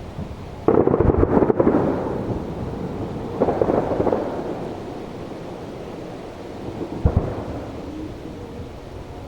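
Aerial firework shells bursting in a display: a loud burst with crackling about a second in, a second burst about three and a half seconds in, and a smaller one around seven seconds, each fading into a rumble.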